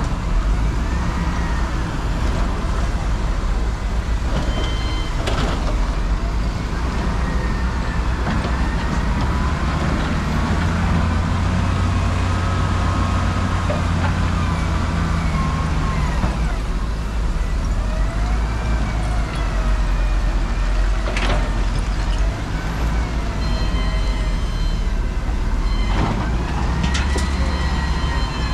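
Heavy motor traffic on a busy highway: trucks and other vehicles passing with a steady low rumble of engines and tyres. A few high wavering tones and several sharp knocks come through over it.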